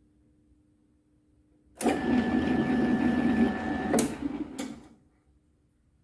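A small motor runs for about three seconds, starting abruptly with a steady whine and ending with two sharp clicks.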